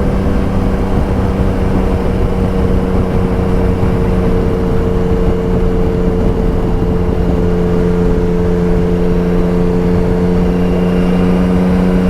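Yamaha Tracer 9 GT+ inline-three engine with its Akrapovic full race exhaust, baffle removed, running at a steady engine speed while riding. The exhaust note holds an even pitch throughout.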